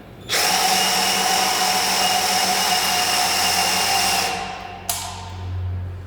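Brushless cordless drill/driver running at a steady high speed with a whine for about four seconds, during a screw-driving test, then winding down. A sharp click follows near the end.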